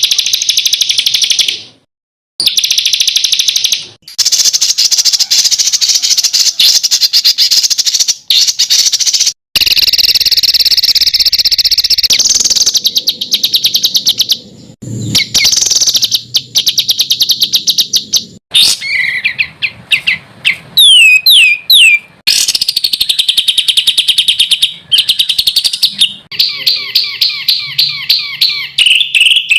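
Spliced recordings of small songbirds singing fast, harsh, rapid-fire trills, the 'tembakan' phrases used as masteran to train competition songbirds. The song cuts off abruptly several times between clips. In the middle comes a run of quick downward-slurred whistles, and near the end a series of evenly repeated notes.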